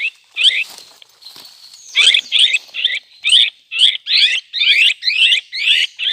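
Cucak kopi calling: a run of loud, short chattering notes, about three a second. There is a brief lull about a second in, then the calls run steadily.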